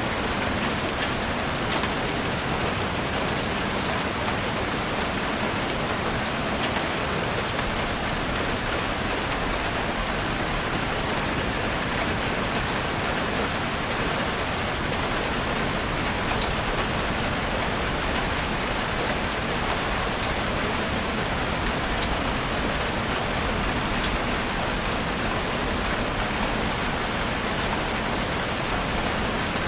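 Heavy rain drumming steadily on a chalet roof, a dense even patter of countless drops.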